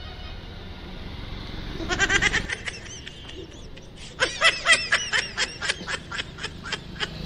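A person laughing in quick runs of 'ha' sounds: a short burst about two seconds in and a longer run of about four laughs a second from about four seconds until near the end. A vehicle engine hums low under the first couple of seconds.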